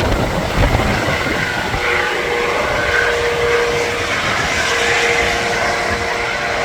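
Helicopter running: a steady mechanical drone, with a held hum joining about two seconds in, over low rumbling wind on the microphone.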